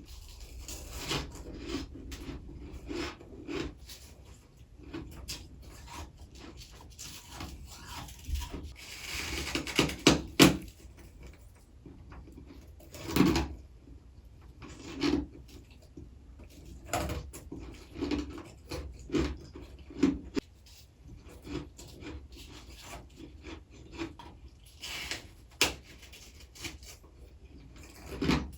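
Close-miked biting and chewing of crunchy freezer frost: irregular crisp crunches with softer grinding chews between them. A few bites stand out as much louder, two close together about ten seconds in and another a few seconds later.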